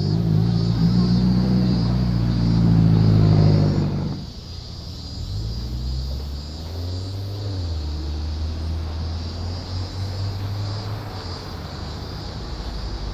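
Car engines leaving a meet. One engine runs loud with its revs climbing slightly, then falls away sharply about four seconds in. After that, quieter engines keep running at low revs as cars roll past.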